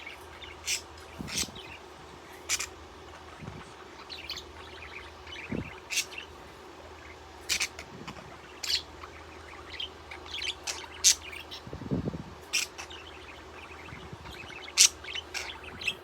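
Pet budgie (parakeet) giving short, sharp chirps at irregular intervals, with a few soft low thumps in between.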